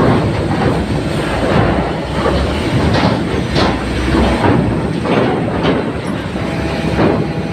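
Vehicles driving across a ferry's steel loading ramp: a steady low engine rumble with repeated metal clanks and knocks, about one or two a second.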